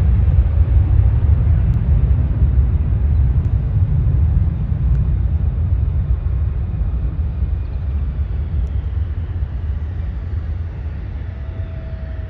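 Jet airliner's engines, a deep rumble with a faint high whine, slowly fading as the aircraft moves away.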